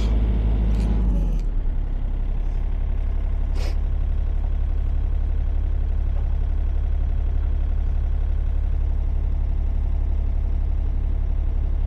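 Sany 35U mini excavator's diesel engine running steadily; about a second and a half in its pitch drops as it settles to a lower speed. A faint click near four seconds in.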